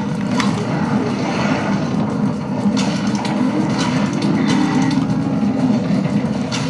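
Video game audio played back through the Armaggeddon X-Bar 2 gaming soundbar: a steady low vehicle rumble with a few sharper noises over it.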